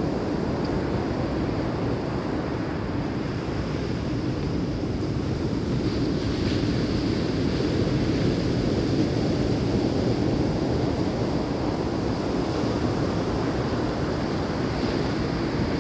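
Steady rush of ocean surf and wind, with wind buffeting the microphone.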